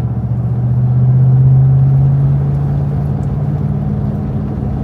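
Pickup truck's engine running steadily while driving: a low drone that shifts slightly in pitch.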